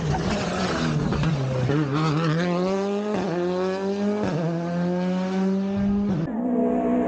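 Rally car engine at full throttle, its note climbing steadily with two brief breaks in the sound, over tyre and road noise.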